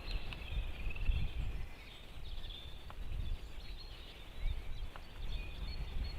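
Wind rumbling and buffeting on an outdoor nest-camera microphone, with faint small-bird chirping in the background and a few soft clicks.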